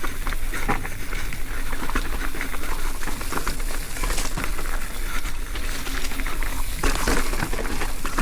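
Mountain bike rolling over a rough dirt trail: a steady crackling rush of tyres on loose ground, with scattered clicks and rattles.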